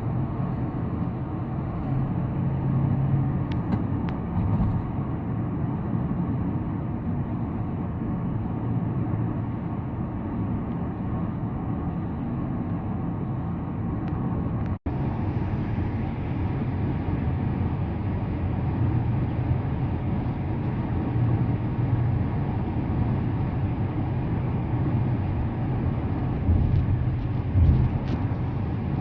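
Car driving at speed: a steady rumble of tyre, road and engine noise with a low hum. It cuts out briefly about fifteen seconds in, then carries on the same.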